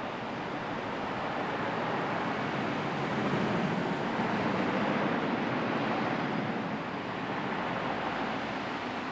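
Sea surf washing in, a steady rush of waves that swells louder for a few seconds in the middle.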